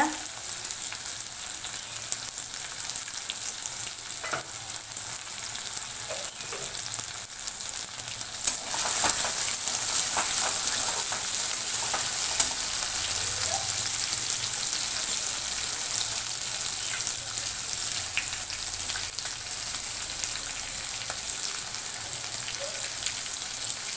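Chopped tomato and spice pastes sizzling in hot oil in a metal kadai, with a metal spatula scraping and clacking against the pan as it is stirred. The stirring and frying get busier and a little louder from about eight seconds in for several seconds.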